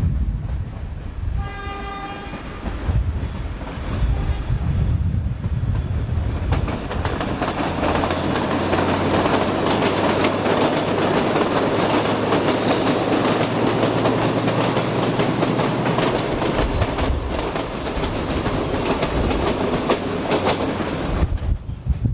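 A train horn sounds one short single-tone blast, then a train passes close by, its wheels clattering rapidly over the rail joints over a steady low hum. The passing sound cuts off abruptly near the end.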